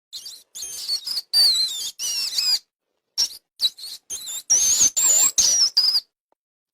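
Songbird singing: a run of high whistled chirps and warbling trills in short phrases, each cut off abruptly by a moment of dead silence.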